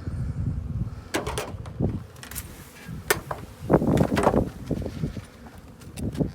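Wooden beehive frames and boxes being handled: several sharp knocks and clicks and short scrapes of wood on wood as frames are pried loose and lifted. Wind rumbles on the microphone near the start.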